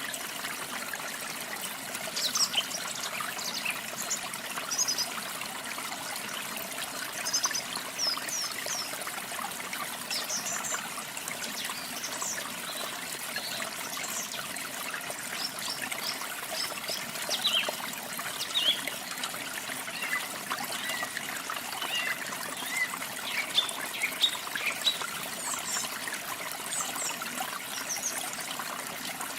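Water falling and running steadily, a small waterfall or stream trickling over rocks, with many small songbirds chirping and whistling throughout in short high notes.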